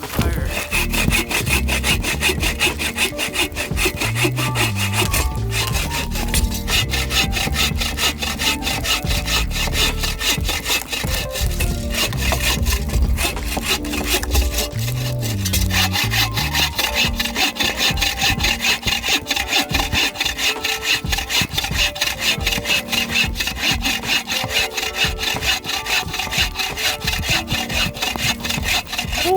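Hand saw cutting through dead wood for firewood, in steady back-and-forth strokes.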